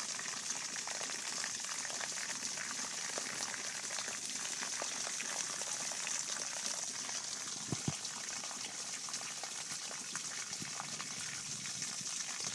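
Steady calm rain falling on shrubs, grass and pavement: an even hiss with a fine crackle of drops. Two soft knocks about eight seconds in.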